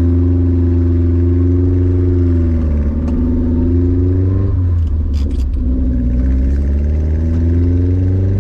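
The 1992 Subaru Sambar's small four-cylinder engine runs under load. Its pitch rises and falls with the throttle: it sags about two and a half seconds in, breaks off near the five-second mark, then climbs steadily again, like a manual gearbox being shifted up. A few light clicks come around the break.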